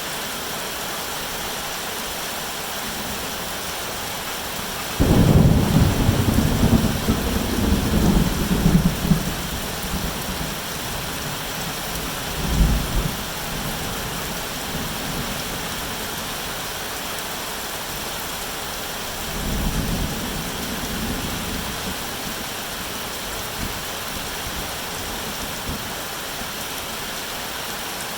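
Steady rain with thunder: a sudden clap about five seconds in that rumbles on for several seconds, a short rumble a few seconds later, and a softer roll of thunder about twenty seconds in.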